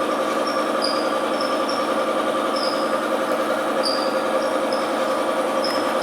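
Steady machine hum with two steady tones in it, overlaid by short high chirps that come irregularly, one or two a second.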